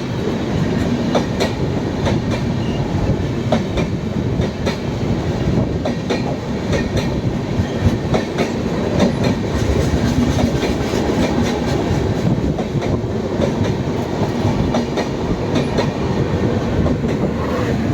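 Express passenger train of LHB coaches rolling past at speed, a steady rumble with wheels clattering over rail joints in many sharp clicks.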